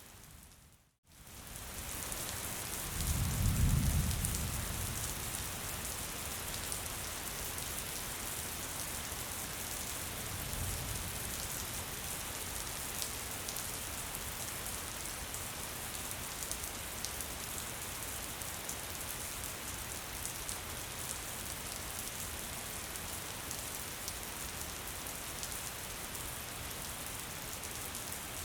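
Steady light rain falling on surfaces, an even hiss with scattered drop ticks. About a second in the sound drops out almost to silence and returns, and shortly after comes a low rumble that swells and fades, with a fainter one some seconds later.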